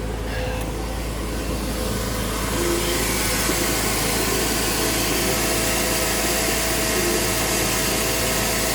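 A 2001 Porsche Boxster S's 3.2-litre flat-six idling steadily on its raised cold-start idle, with no unusual noises. A rushing noise builds up about two seconds in.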